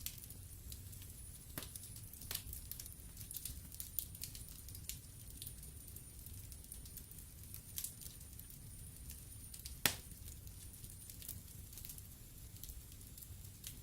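Wood fire crackling in a fireplace: irregular small pops and snaps, with one louder pop about ten seconds in, over a low steady rumble.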